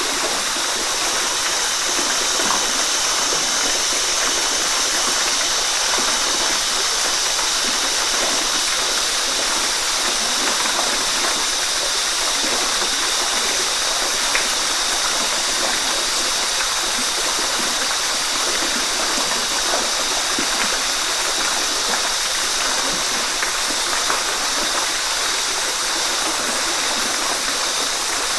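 Running water from a stream or small waterfall, a steady rushing and splashing that holds evenly with no breaks.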